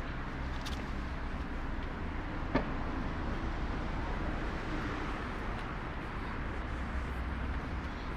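City street ambience: a steady low rumble of traffic, with a single sharp click about two and a half seconds in.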